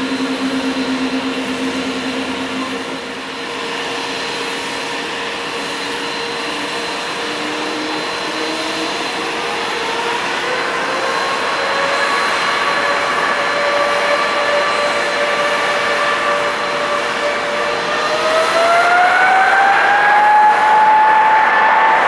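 Boeing 777-200 jet engines spooling up from idle in two steps, a rising whine that climbs about ten seconds in and again near the end, growing louder as take-off power is set.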